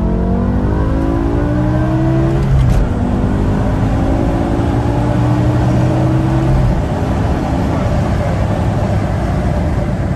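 BMW M5 E60's V10 engine accelerating hard, heard from inside the cabin. The engine note climbs, drops back with an upshift about two and a half seconds in, and climbs again through the next gear. Around six and a half seconds in it gives way to a steady rumble of road noise.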